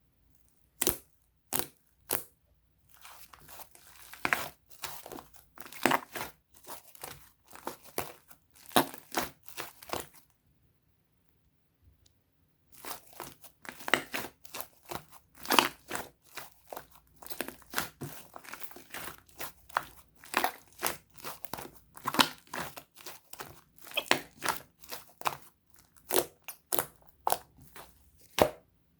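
Slime being squeezed, stretched and pressed by hand, giving runs of short crackling pops and tearing sounds. Three separate pops come first, and the sounds stop for about two and a half seconds near the middle.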